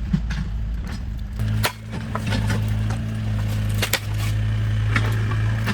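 A motor running with a steady low hum that steps up about a second and a half in, with a few sharp knocks and clicks over it.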